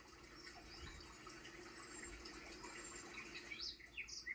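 Faint birds chirping outdoors, a few short rising calls near the end, over a low steady hum.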